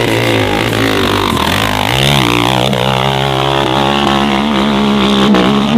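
Dirt bike engine running hard at high revs, its pitch stepping up about two seconds in.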